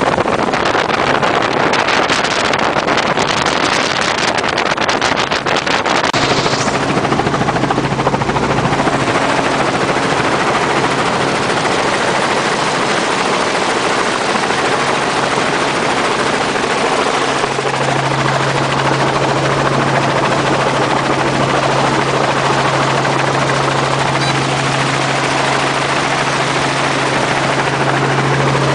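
Helicopter running steadily: a loud, dense rush of rotor and engine noise. A steady low hum comes in about six seconds in and grows stronger past the middle.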